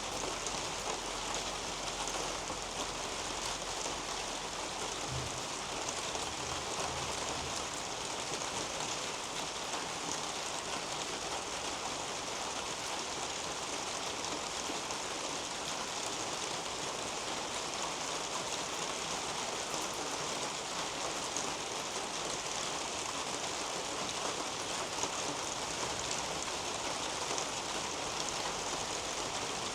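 Steady rain falling on garden foliage and a roof overhead, a dense, even patter of drops trickling through the leaves.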